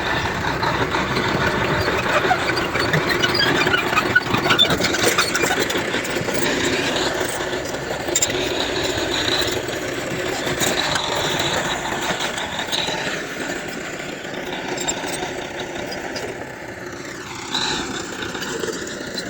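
Heavy earthmoving machinery running under load, with high metallic squealing and clanking over the engine noise, and a sweeping change in pitch near the end.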